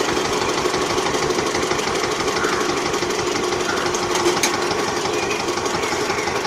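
Small DC motor running steadily with a fast, dense buzzing rattle and a faint steady hum.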